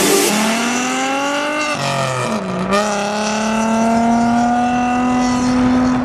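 A car engine held at high revs: its pitch climbs slowly, dips sharply about two seconds in, then rises again and holds steady.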